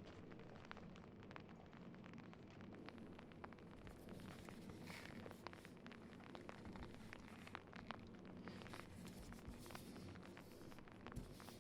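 Faint irregular crackling clicks over a low steady hum.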